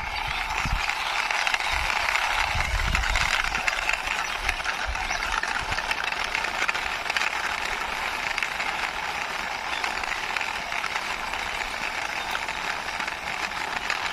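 A plastic toy car's wheels rolling steadily as it is pushed along by hand, a dense whir of fine clicks, with a few low knocks in the first three seconds.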